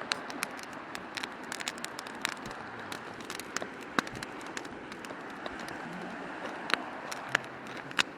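Wood campfire crackling with irregular sharp pops, over the steady rush of a river.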